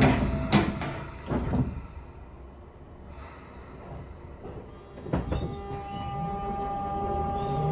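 Train doors sliding shut with a few knocks. After a quieter pause comes a clunk, then the Sotetsu 8000 series' Hitachi GTO-VVVF inverter starts a steady whine of several tones as the train begins to pull away.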